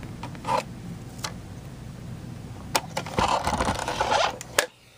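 Handling noise: a few sharp clicks, then about a second of rattling clatter and a last click, after which the sound cuts off abruptly.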